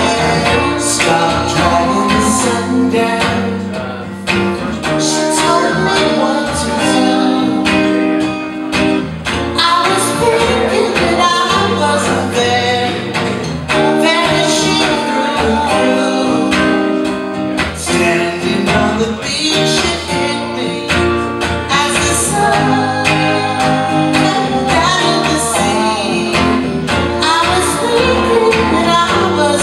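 Live band music: strummed acoustic guitar with other instruments and some singing, playing on without a break.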